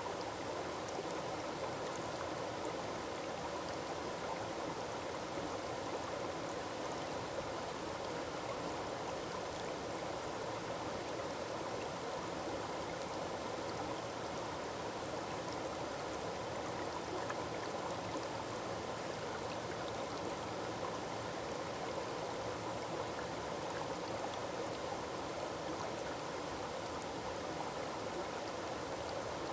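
Small forest waterfall splashing and rushing steadily, an even noise of falling water without change.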